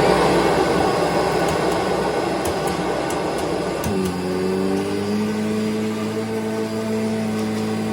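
Kirby G5 upright vacuum cleaner running just after switch-on, with a few faint clicks as the nozzle height is stepped down. About four seconds in, the roar eases into a steadier, lower hum as the nozzle settles into contact with the rug.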